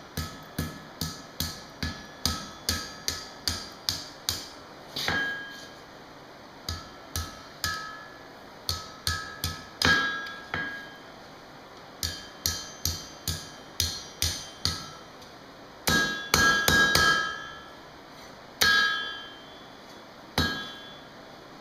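Hand hammer striking hot steel on an anvil. The blows come about two a second in runs separated by short pauses, with a brief ring from the anvil after each strike and a quick flurry of blows past the middle.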